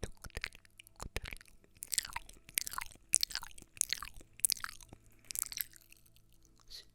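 Close-miked ASMR crunching and crackling: scattered sharp clicks, then a run of crisp crackles through the middle few seconds.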